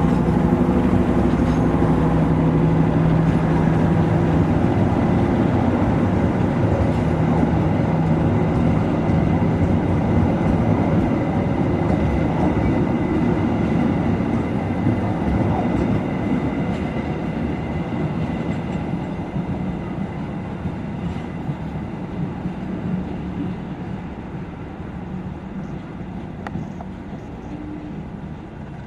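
Passenger train passing: a diesel locomotive's engine hum for the first few seconds, then the coaches' wheels rolling along the rails, the sound slowly fading away.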